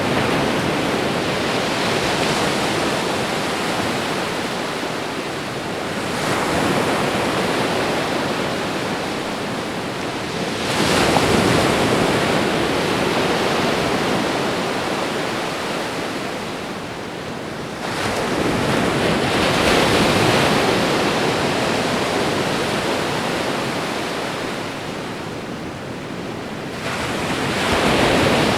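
Ocean waves washing onto a shore, each wave swelling and then draining away every several seconds: about four surges.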